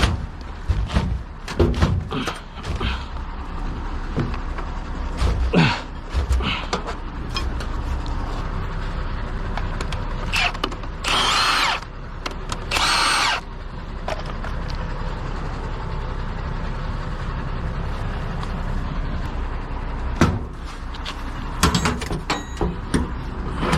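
Two bursts of about a second each from a power tool, over a steady low rumble, with scattered knocks and clanks.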